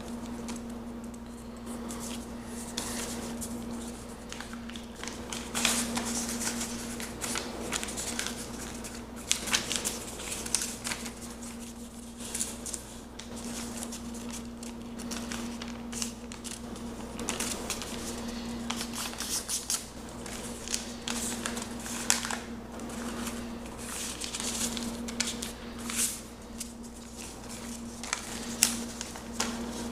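A sheet of paper being folded and creased by hand: irregular rustles and short crisp crease strokes, over a steady low hum.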